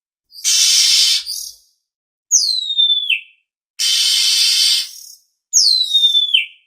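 Oriental magpie-robin calling: a harsh, hissing rasp about a second long alternates twice with a clear whistle that slides down in pitch and drops at the end.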